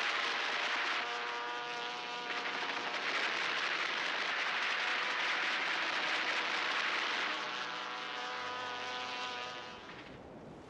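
Piston aircraft engines droning steadily, the tone shifting slightly partway through and falling away near the end.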